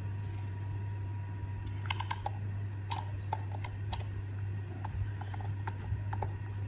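Scattered light clicks and taps, irregular and a few per second, over a steady low hum.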